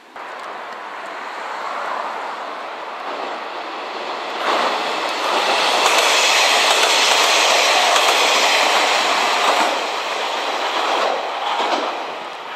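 A train passing close by, its wheels clattering over the rail joints. It builds to its loudest about halfway through and fades near the end.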